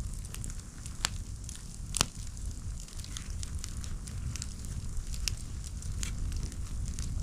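Campfire crackling, with sharp wood pops at irregular moments, the loudest about one and two seconds in, over a steady low rumble.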